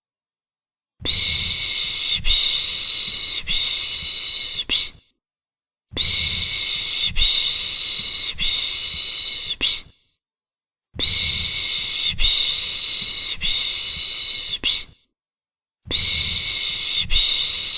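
A person making a rhythmic 'shh, shh, shh' shushing sound to lull a baby to sleep. The long hissing shushes come about every second and a quarter, in runs of three or four, with a pause of about a second between runs.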